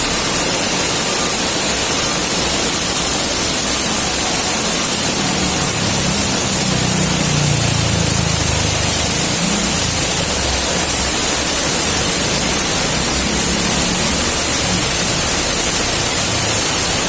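Heavy rain falling in a steady loud hiss. A low rumble swells about six seconds in and fades away a few seconds later.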